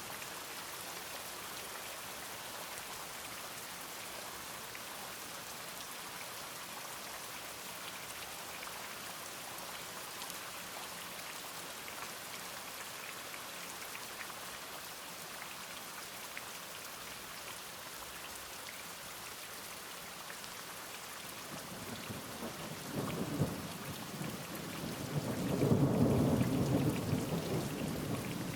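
Steady rain falling, with a roll of thunder that starts about 22 seconds in, builds to its loudest about 26 seconds in and is fading near the end.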